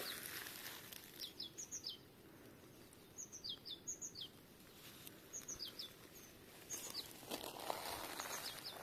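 Small birds, African blue tits, calling: short high thin notes, each dropping in pitch, in little groups of two or three, repeated every second or two. Near the end, rustling footsteps on the forest floor.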